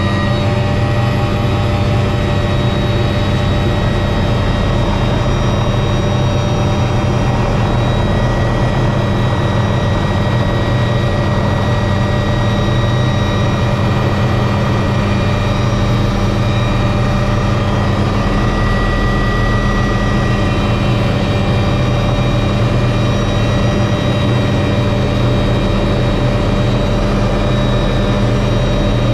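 Helicopter running steadily in flight: a constant low engine and rotor drone with a steady high-pitched whine above it.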